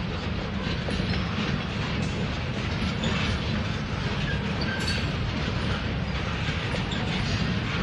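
Freight train of TTX bulkhead flatcars, some loaded with steel rail, rolling past: a steady rumble of wheels on rail with light clicking over the joints and a brief faint wheel squeal about halfway through.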